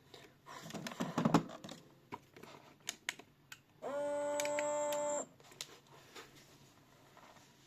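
Miele W1 toy washing machine: a burst of plastic clicking and rattling, then a few single clicks. About four seconds in comes a steady electronic beep lasting just over a second.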